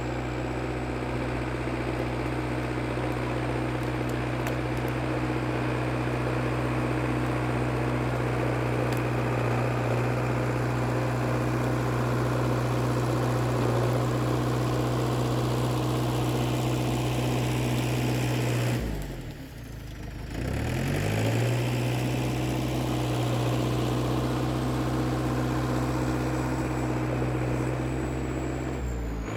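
International Harvester TD8E bulldozer's diesel engine running steadily; about two-thirds of the way through its speed dips briefly and then picks back up.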